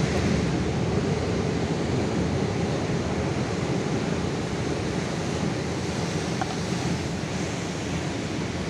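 Sea waves washing onto the shore, a steady rush of surf.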